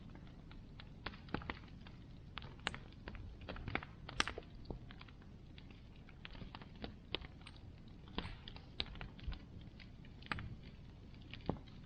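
Bonfire crackling: irregular sharp pops and snaps of burning wood over a steady low rush of the flames, with the loudest pop about four seconds in.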